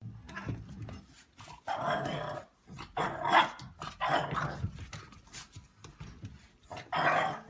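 A dog vocalizing in several short, irregular bursts, the last one near the end.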